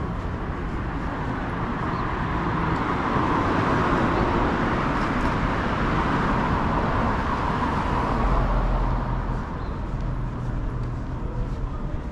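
Street traffic: a motor vehicle passes close by, its noise swelling over several seconds and then fading, with a low engine hum near the end.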